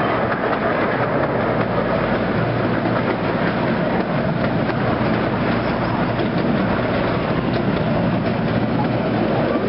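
Miniature railway passenger cars rolling along the track: a steady rumble and rattle of wheels on rails, with a few faint clicks from the rail joints.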